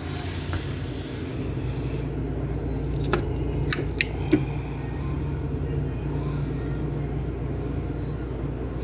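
Steady low machine hum, with a few sharp clicks about three to four and a half seconds in.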